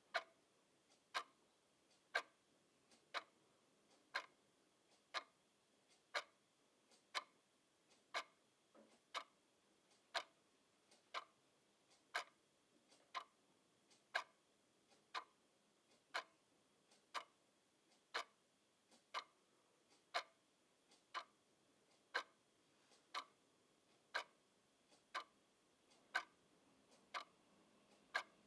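Clock ticking steadily, about one tick a second, each tick a short sharp click.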